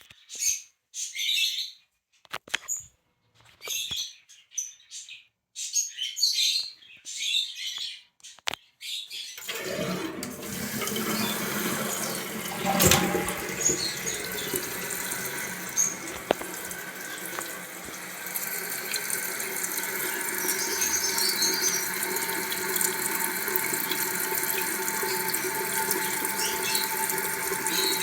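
Short high squeaks come and go for the first nine seconds. Then, about nine and a half seconds in, water starts rushing steadily into a 1993 Kohler Wellworth Lite toilet tank, with a steady hissing whine from the fill valve as the tank refills. There is a single knock a few seconds after the water starts.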